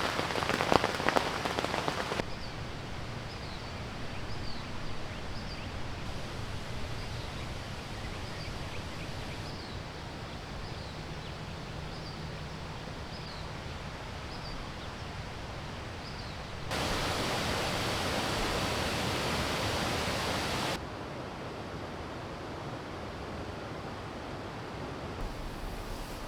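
Steady rain hiss, changing level abruptly at several cuts, louder for a few seconds past the middle. Faint short high chirps repeat over the hiss through the first half.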